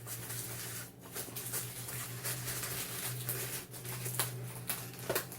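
Irregular rustling and crackling of a parcel's packaging being handled by hand, over a steady low hum.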